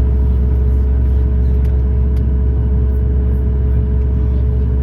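Steady cabin noise of a Boeing 737-9 MAX with its CFM LEAP-1B engines running: a deep, even rumble with a steady hum over it, and a couple of faint clicks.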